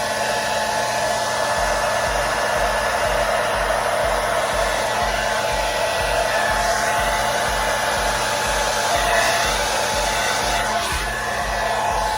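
KISS hair dryer running steadily on its low setting: an even rush of air with a steady motor whine.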